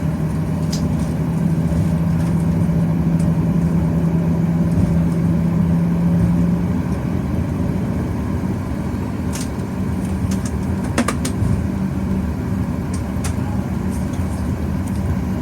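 Cabin noise of a Boeing 737-800 taxiing, its CFM56-7B engines at low thrust: a steady low rumble and hum. The hum's pitch steps slightly higher about seven seconds in, and a few faint clicks come about eleven seconds in.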